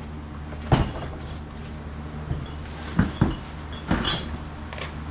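A few sharp knocks and clunks, four in all, the two in the middle close together, over a steady low hum.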